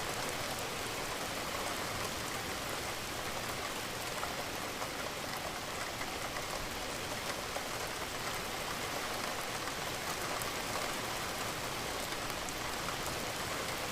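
Steady rain falling, an even hiss scattered with fine drop ticks.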